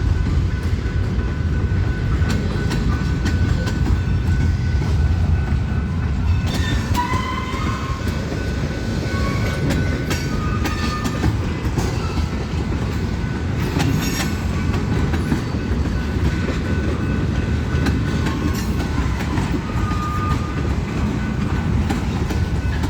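Freight cars of a slow BNSF freight train rolling past: a steady low rumble with wheels clicking over rail joints, and short high-pitched squeals now and then through the middle.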